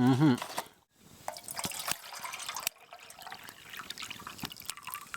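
Water being poured into a pot or kettle to be boiled, trickling and dripping unevenly with small knocks.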